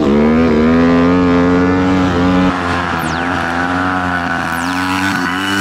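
SDG 190cc pit bike's single-cylinder four-stroke engine revving up and held at steady high revs, dipping slightly about halfway. It runs cleanly now that its intake snorkel has been shortened so the engine gets enough air.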